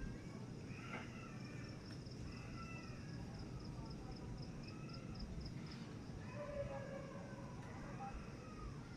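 Faint night ambience: an insect chirps in a steady, even pulse high up, over a low continuous rumble, with faint wavering calls drifting in and out. No thunderclap is heard.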